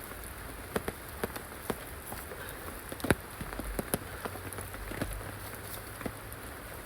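Steady rain with large drops striking a surface at irregular intervals; the sharpest strike comes about three seconds in.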